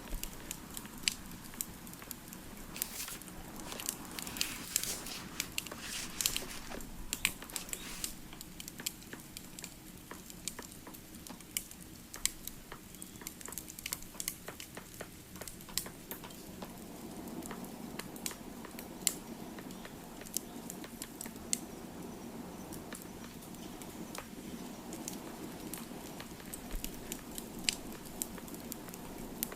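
Wood fire crackling, with irregular sharp pops and snaps over a soft rushing of flame; the crackle comes thickest a few seconds in, and the low rush grows stronger about halfway through.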